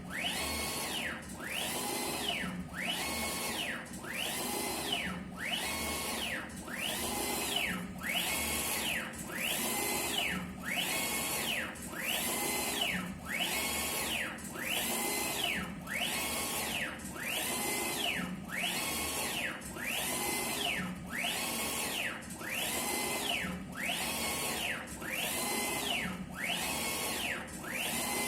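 UV flatbed printer's print-head carriage sweeping back and forth about once a second. On each pass its motor whine rises in pitch as it speeds up, holds, then falls as it slows at the end of the stroke.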